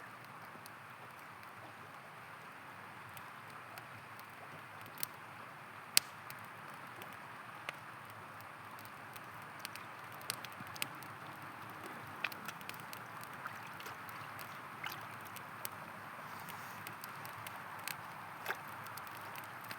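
Steady rushing of a river, with a campfire crackling and popping over it in scattered sharp snaps, the loudest about six seconds in.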